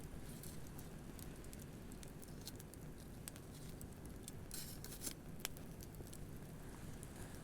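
Wood campfire crackling with irregular sharp pops, a quick cluster of them about four and a half to five seconds in, over a low steady wash of surf.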